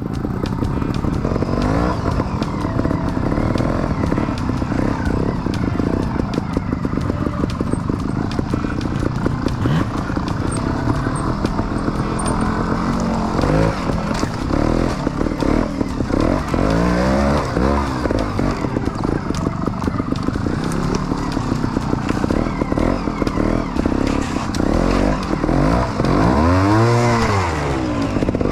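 Trials motorbike engine running through a trials section, blipped and revved in short bursts so the pitch rises and falls again and again, with the biggest rev near the end.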